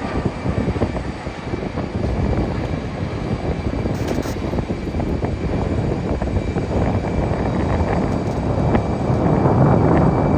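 Jet airliner on its landing approach, a steady engine rumble that grows louder over the last few seconds.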